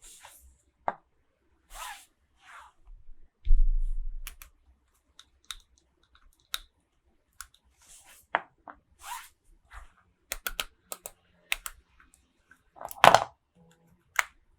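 Hands handling toy packaging and small plastic toy pieces: scattered light clicks and short rustles, a dull thump about three and a half seconds in, and a louder crinkle near the end.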